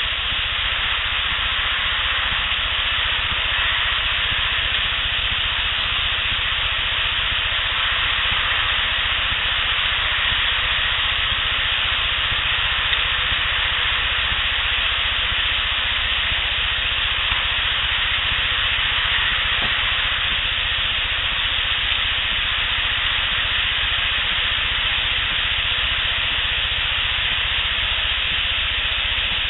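Steady, even hiss from an outdoor audio recorder, with no distinct sound standing out from it.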